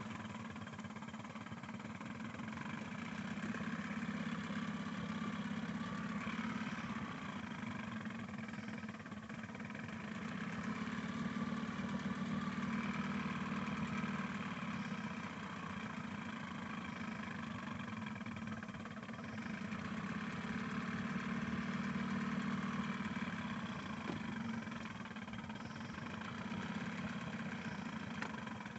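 Evinrude/Johnson 9.9 hp outboard motor running steadily under way, pushing an inflatable PVC boat, its level swelling and easing slowly every several seconds.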